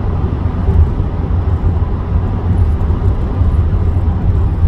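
Steady road and engine rumble inside a moving car's cabin at highway speed, heavy in the low end.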